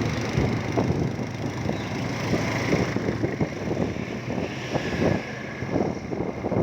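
Wind rushing and buffeting over the microphone of a moving motorcycle, in uneven gusty thumps, with the bike's engine and road noise running underneath.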